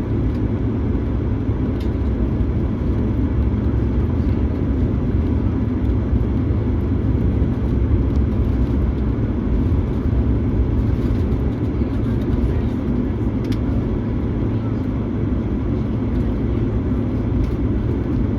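Steady low rumble of a vehicle running, with faint voices in the background.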